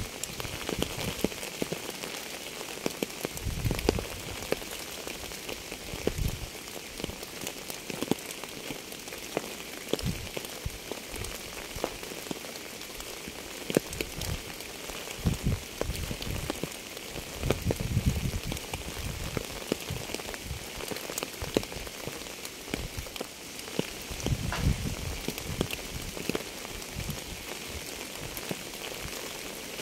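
Steady rain falling, a constant hiss with many individual drops clicking on a surface. Every few seconds there is a low thud.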